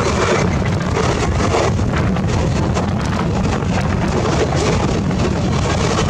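Wind buffeting the microphone over the steady rumble and rattle of a moving train, as a passenger train's coaches rush past close by on the adjacent track.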